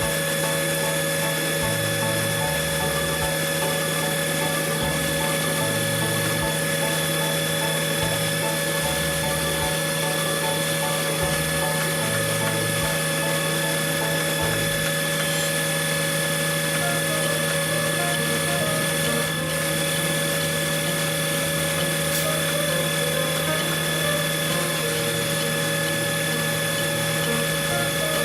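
Heavy engine-driven machinery of a concrete pump or mixer truck running at a constant speed: an even drone with several steady fixed-pitch tones.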